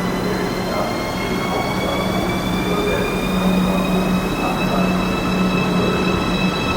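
An electric train accelerating. Its traction drive whines in several tones whose pitch rises slowly and steadily, over rolling rumble and a steady low hum.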